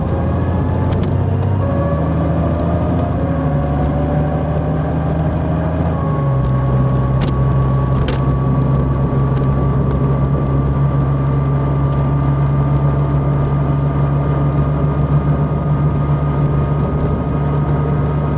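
Large motorcycle's engine running under way. Its pitch rises as it accelerates, drops at a gear change about six seconds in, then settles into a steady cruise.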